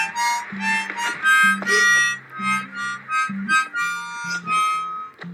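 Music: a harmonica playing a melody over a plodding bass line, the introduction to a song.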